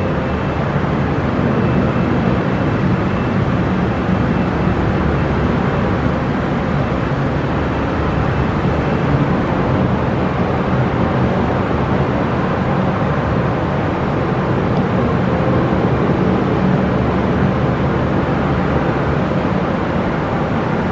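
Steady engine noise of a jet airliner at the airport, holding an even level with no rise or fall.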